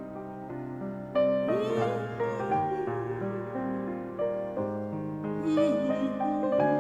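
Slow instrumental music led by piano, with sustained chords and a melody line that wavers with vibrato.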